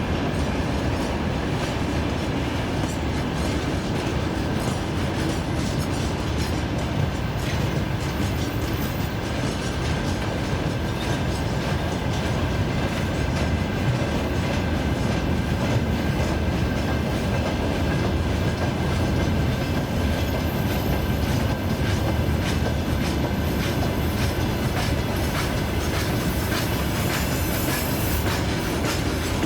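Freight train wagons rolling past, their wheels knocking steadily over the rail joints, with a thin, high wheel squeal running underneath.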